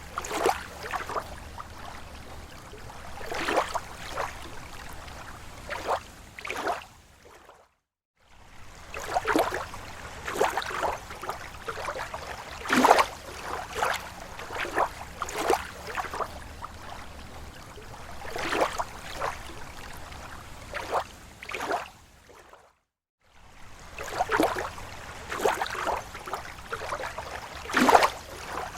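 Small waves lapping against a lake shore: irregular soft splashes and gurgles of water against a steady low wash. The sound drops out briefly twice.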